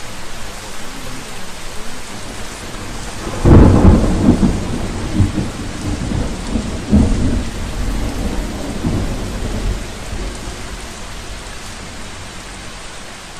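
Steady rain with a rumble of thunder that breaks in suddenly about three and a half seconds in, swells a few times and fades away over several seconds.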